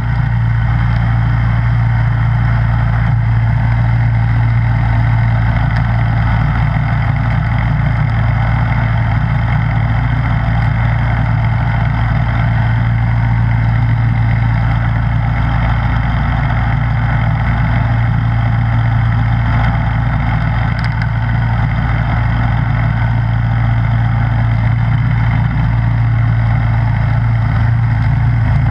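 Snowblower engine running at a steady speed, with an even, unchanging hum.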